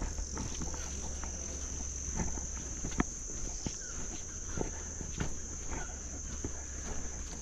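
Cicadas buzzing in a steady, high-pitched chorus, with scattered footsteps on the trail.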